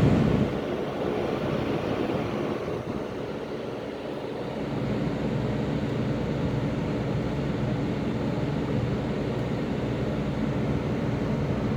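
Air conditioner and heat unit running with a steady hum. It drops noticeably about half a second in, then picks back up around five seconds in and runs evenly.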